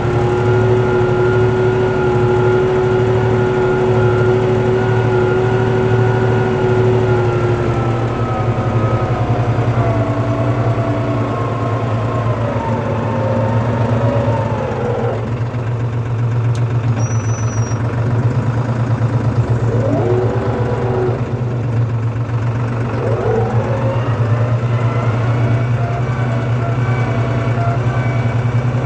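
Tractor engine running steadily with a strong low pulse. A whining tone over it holds steady at first, then falls and rises in pitch several times.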